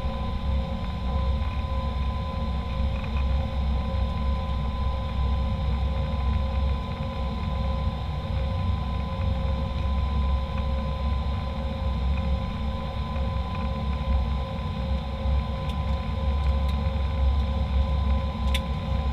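Airliner cabin noise: a steady low rumble with a constant high whine, from the engines and air systems running.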